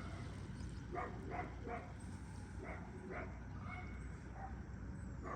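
A dog barking repeatedly, a string of short barks about every half second, over a steady low background rumble.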